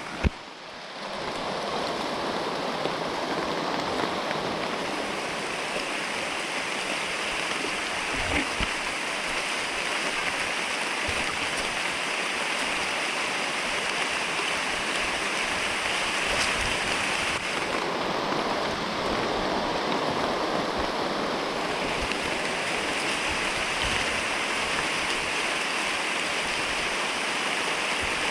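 Heavy rain falling: a steady rushing of water with no pauses.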